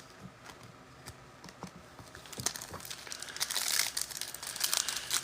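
Plastic trading-card pack wrapper crinkling as it is handled. A few light clicks come first, then the crinkling starts about two seconds in and goes on busily.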